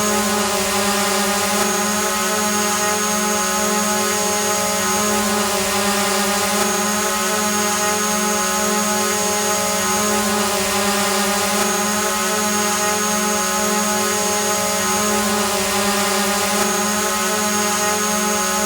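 Quadcopter drone hovering: its electric motors and propellers give a steady, even buzzing whine with a hiss of rushing air.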